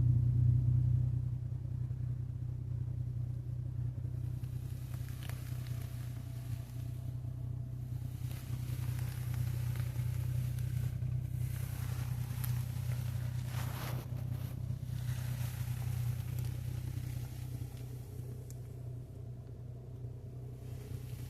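Car engine idling with a steady low hum inside an automatic car wash, with a hiss of water spray that swells about a third of the way in and fades again near the end.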